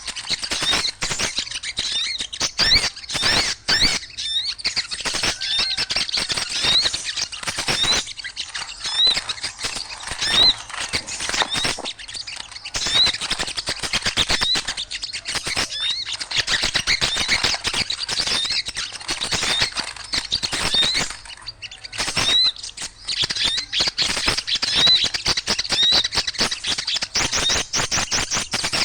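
Noisy, continuous chirping and squawking of many small birds, with short rising notes repeating every second or so over a dense chatter. This is a bird-lure call of agitated small birds, used to draw birds straight in.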